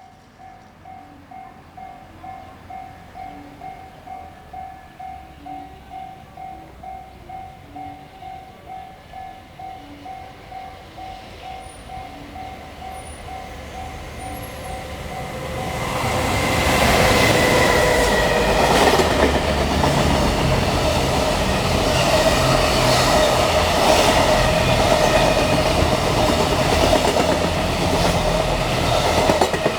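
A warning bell rings about twice a second while a freight train's rumble grows. About halfway through, the freight train passes close by: a loud rush with a steady hum, then the wagons' wheels clicking over the rail joints in a steady rhythm.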